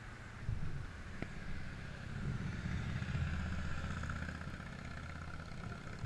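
A motor vehicle's engine running, louder through the middle and then easing off, with a single sharp click about a second in.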